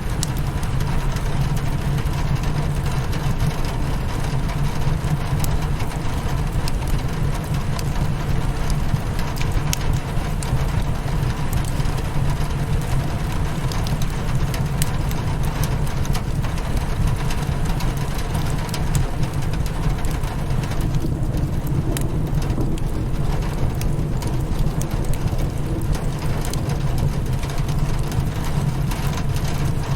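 Rain pattering steadily against a window pane mixed with a crackling wood fire, whose scattered sharp pops sit over an even hiss. Underneath runs a dense, steady low rumble, the loudest part of the sound.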